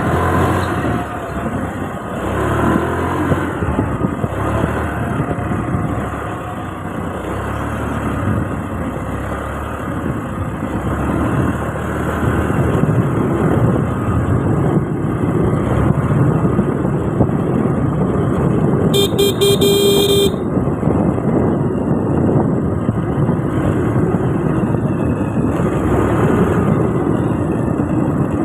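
Steady motorcycle riding noise: engine and rushing wind and road noise. A vehicle horn honks once for about a second, about two-thirds of the way through.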